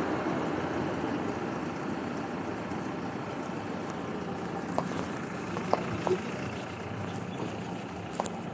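Steady traffic noise of a city street, with a few short sharp clicks about halfway through and near the end.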